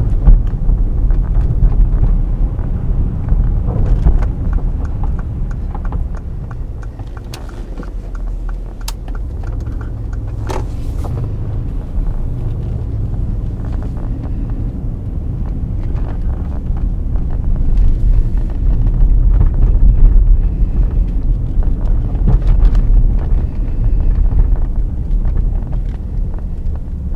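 Mercedes-Benz GL 63 AMG's 5.5-litre twin-turbo V8 running under load while the SUV is driven on snow. The deep rumble eases off a few seconds in, then builds to its loudest about twenty seconds in, with a few brief sharp clicks along the way.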